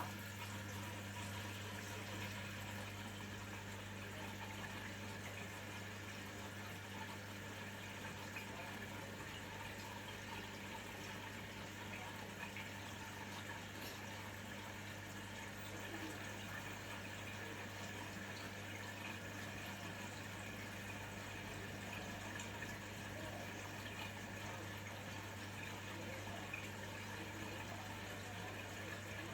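Washing machine taking in water, an even rush of filling water over a steady low hum.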